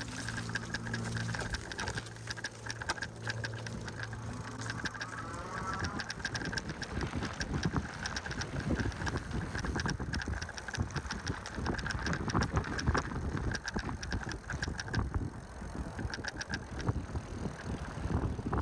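E-bike rolling over an uneven surface, its frame and parts rattling with many quick irregular clicks and knocks over a low rumble.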